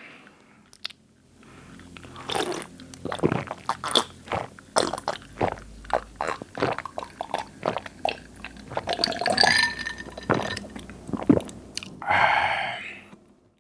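Close-miked mouth sounds of someone drinking a carbonated soft drink: a rapid run of wet clicks and gulps. A breathy exhale comes near the end.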